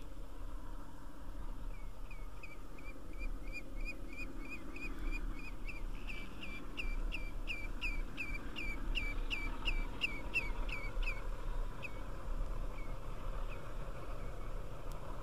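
A bird calling: a long run of short, repeated whistled notes, about two a second at first, quickening and growing louder, then breaking off into a few scattered notes near the end.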